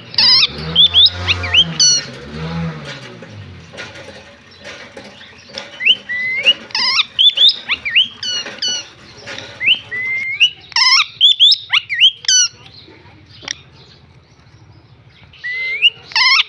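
A parrot calling in bursts of short, shrill rising squawks and chirps, with quiet gaps between the bursts. A low wavering hum runs under the first few seconds.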